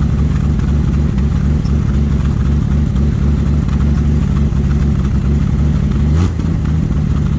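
Dodge D100's slant-six engine running steadily while it warms up on choke after a cold start. About six seconds in there is a short knock and a brief swell in the engine note, which then settles slightly lower.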